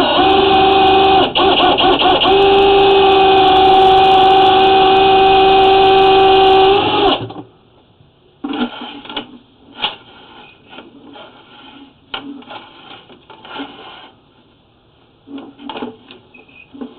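Drain-cleaning machine motor running with a steady whine, dipping briefly about a second in, then switched off about seven seconds in. After that, faint scattered knocks and rattles.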